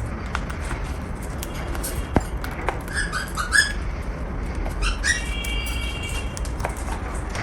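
Cockatiel calling: a few short chirps around three seconds in, then one steady note lasting about a second near the five-second mark, with scattered light clicks.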